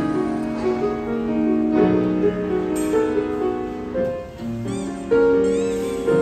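Acoustic piano played expressively in slow, sustained chords with a melody above them, with a loud new chord struck about five seconds in.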